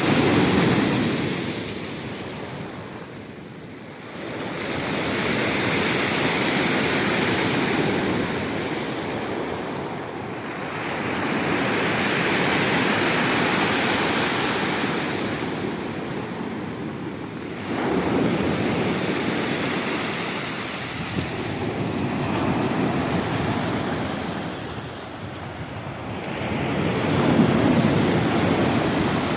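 Sea waves breaking and washing onto the shore, each surge swelling and falling away every five to seven seconds, with wind noise on the microphone.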